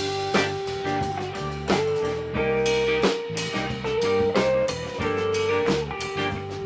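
A band playing: the lead guitar holds and bends notes over the bass line and drum kit.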